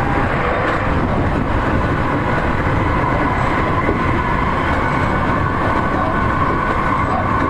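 Seibu 40000 series electric train running at speed, heard from inside the passenger car: a steady rumble of wheels on rail under the even whine of its Toshiba permanent-magnet synchronous traction motors and VVVF inverter.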